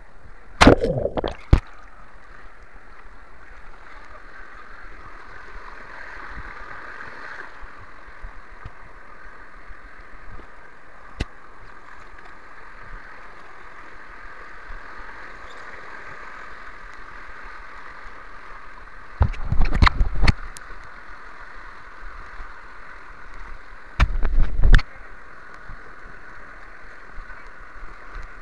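River water flowing and gurgling steadily around a bamboo raft drifting downstream. Three short bouts of loud knocks and deep bumps break in: about a second in, about two-thirds of the way through, and once more a few seconds later.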